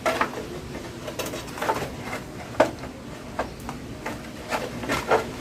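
Irregular clicks and knocks of the plastic parts of a household exhaust fan being handled and fitted together.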